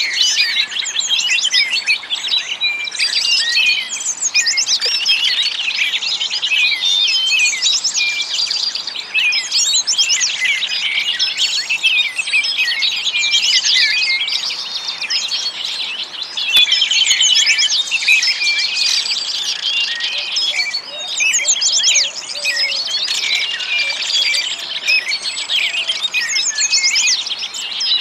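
Many small birds chirping and trilling together in a dense, unbroken chorus of short, high notes.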